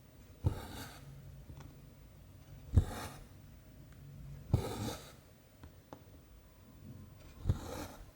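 Cross-stitch needle clicking through the taut canvas, each click followed by a short scratchy rasp of cotton thread being pulled through: four stitches, about one every two to three seconds.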